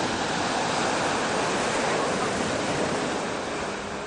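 Sea waves washing and breaking on the shore, a steady rushing surf noise that eases off near the end.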